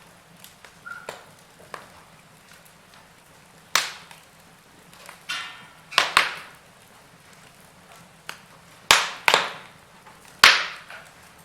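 Wood fire crackling in a fireplace: a scatter of sharp pops over a faint steady hiss, the loudest coming in quick pairs.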